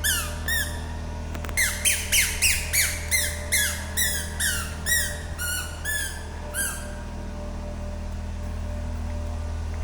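A run of short, high squeaks, about three a second, each rising then falling in pitch, stopping about seven seconds in. A steady low hum runs underneath.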